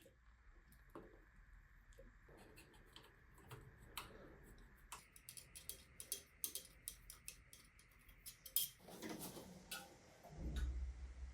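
Faint, irregular light clicks and ticks, coming thicker and faster in the middle. They are followed by a short rustle and a low bump near the end.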